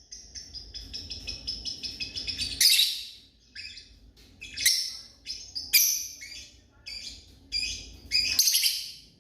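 Lovebirds calling: a fast run of high chirps, then a string of loud, shrill, harsh calls.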